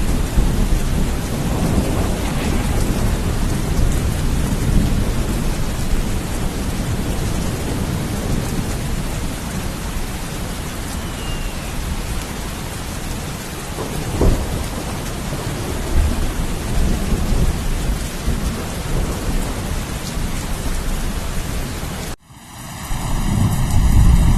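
Steady heavy rain with low rolling thunder, and a sharper thunder crack about 14 seconds in. About 22 seconds in the sound cuts off abruptly and a different low rumble swells back up, like a splice in the recording.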